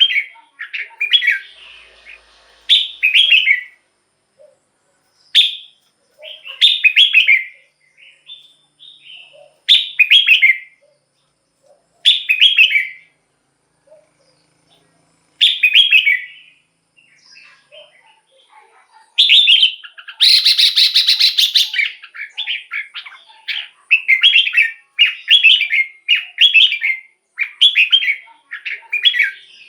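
Red-whiskered bulbul singing: short, bright, warbling phrases repeated every second or two, growing more frequent near the end. About twenty seconds in there is a harsh, rattling burst lasting a couple of seconds.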